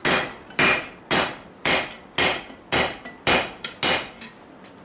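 Hand hammer drawing out rebar over the edge of a Vulcan 90-pound anvil: about eight ringing blows at a steady two a second, then a few lighter taps near the end. The blows test whether the anvil's rebuilt edges hold.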